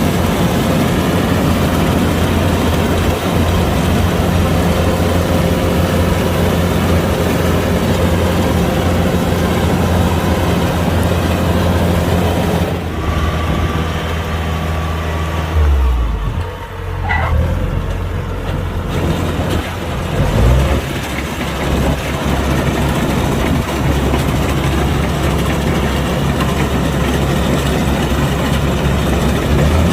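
Kubota DC-105X combine harvester's diesel engine running steadily with its threshing machinery. About halfway through the sound thins and dips for a few seconds, then the full running sound comes back.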